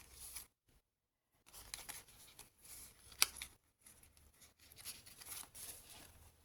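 Soft rustling and sliding of paper and card as the pages and a journaling card of a handmade junk journal are handled, with one sharp tap a little over three seconds in.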